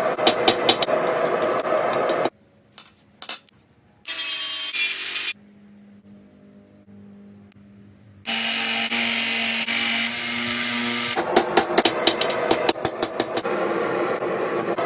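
Rapid hammer blows on steel, cut together with stretches of a steady power-tool hiss and short quiet gaps. The hammering is heard at the start and again from about two thirds of the way in; the loudest hiss runs for about three seconds in the middle.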